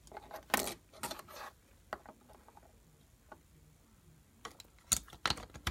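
Light plastic clicks and taps of LEGO pieces being handled, a few near the start and another cluster near the end, with quiet stretches between.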